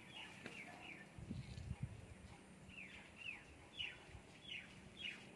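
A bird calling faintly in a series of short, falling chirps, about two a second, mostly in the second half. A brief low rumble comes about a second in.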